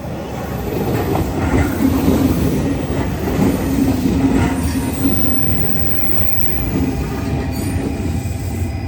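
Train running along the rails close by: a loud, continuous rumble of wheels on track, with a steady whine joining in about five seconds in.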